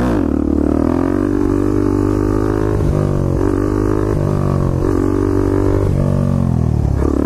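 Single-cylinder motorcycle engine droning at high, held revs, its pitch dipping and recovering several times as the throttle is worked.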